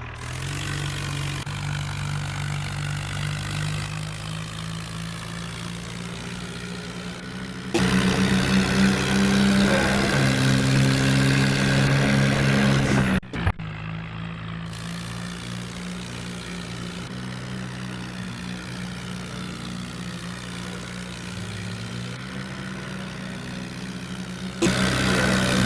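Swaraj tractor's diesel engine running steadily. Its note turns abruptly louder about eight seconds in, breaks off for a moment around thirteen seconds, and turns louder again near the end.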